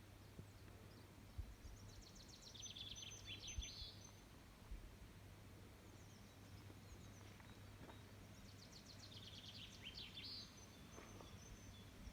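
Faint songbird singing two quick phrases of rapid high notes, one about two seconds in and another near ten seconds, over a steady low hum.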